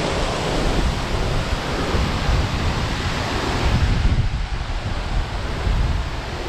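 Strong storm wind gusting and rushing, buffeting the microphone with a heavy low rumble.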